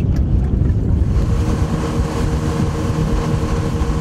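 Motorboat engine running at a steady pitch, with wind rumbling on the microphone. The engine's steady drone comes in about a second in and holds.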